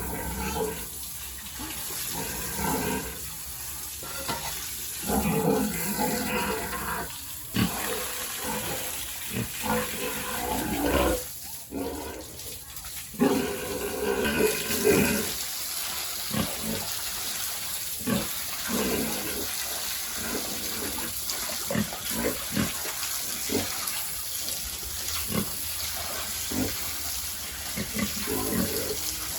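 Pigs grunting and squealing in the pen, with running water; from about halfway the water hiss is steady and the pig calls become short grunts.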